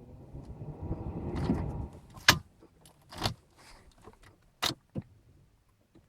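Audi 1.9 TDI diesel engine cranking and catching on a deep-cold start, a rough rumble that peaks about a second and a half in and then falls away. Several sharp clicks and knocks follow.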